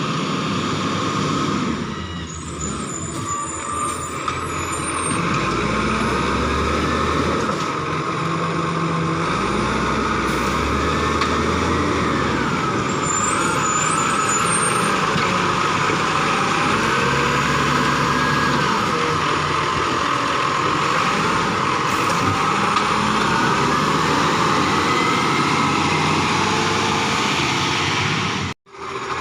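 Garbage truck running at the kerb, its engine revving up and down as it works the bins, with a brief cut to silence near the end.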